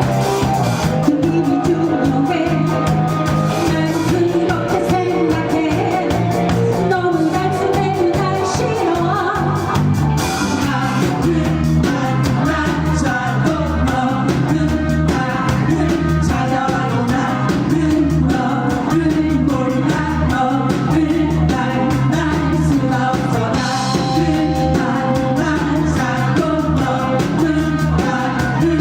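Live rock band playing a song, with singing over steady drums and bass.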